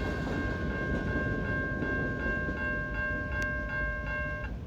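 Railroad crossing bell ringing in a steady rhythm of about two to three strikes a second over the rumble of passing freight cars. The bell cuts off suddenly near the end.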